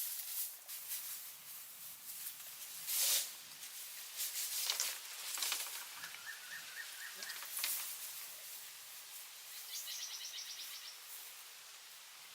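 Scattered rustling and scraping strokes, several in the first eight seconds. A bird chirps a quick run of about six short notes in the middle, and a fast higher trill follows near the end.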